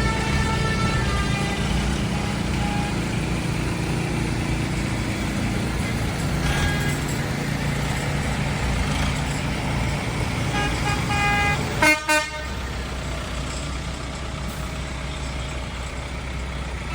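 Tractor engines running steadily in a slow convoy, with horns tooting; two short loud horn blasts come about twelve seconds in.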